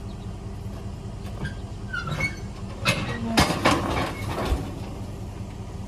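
A vehicle engine running steadily, with a burst of loud knocking and rattling clanks about halfway through, as of a loaded hay trailer and hitch jolting.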